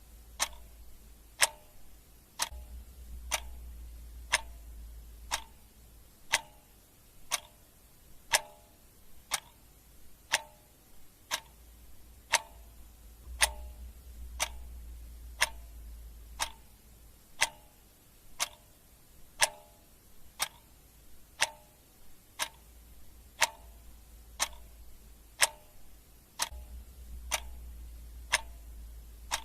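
Clock ticking steadily, about one tick a second. A low rumble swells up and fades a few times underneath.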